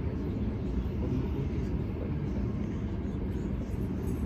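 Steady low rumble inside the passenger car of a Sydney Trains Millennium electric train running along the track.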